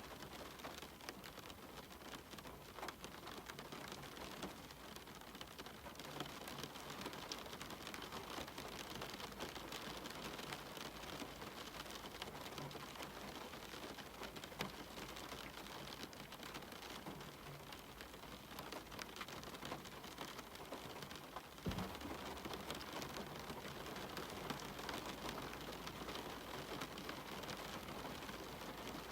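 Steady rain falling, with individual drops ticking and pattering on a surface. One louder knock comes about three-quarters of the way through.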